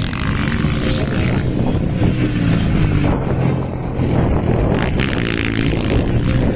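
Honda CG-based single-cylinder four-stroke motocross bikes racing, engines running hard with the revs rising and falling.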